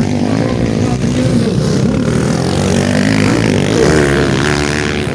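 Motocross motorcycle engines revving as bikes race past, several engines at once, their pitch rising and falling with throttle, most strongly in the second half.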